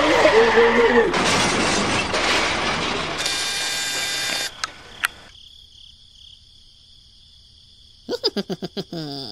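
Crash sound effect as a toy model tractor overturns onto a rock: a long burst of clattering noise, then a short ringing tone that cuts off about four and a half seconds in. Near the end comes a quick run of rapid, stuttering pulses falling in pitch.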